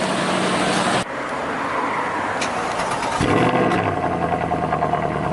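A supercar engine starting about three seconds in: a sudden loud catch, then running steadily. Before that, steady engine noise with an abrupt change about a second in.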